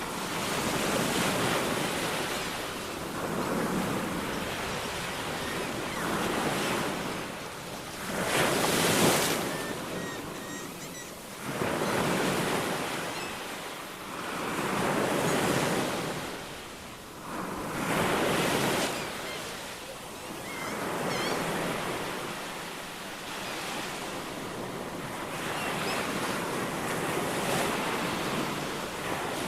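Ocean waves breaking and washing on the shore in surges every three to four seconds. The surges are loudest about a third and about two-thirds of the way through.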